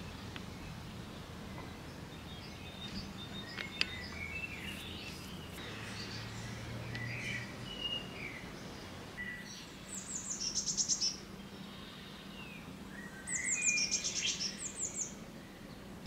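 Songbirds calling and singing, with scattered short chirps and two louder phrases of quick repeated high notes, one past the middle and one near the end.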